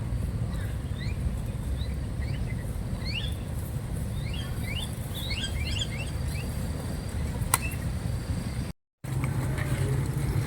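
Small birds chirping in quick, repeated short notes over a steady low rumble, with a single sharp click about seven and a half seconds in and a brief dropout to silence shortly after.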